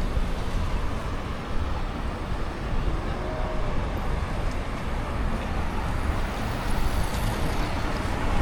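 Steady city street traffic noise: cars and other vehicles passing, with most of the sound in a low rumble.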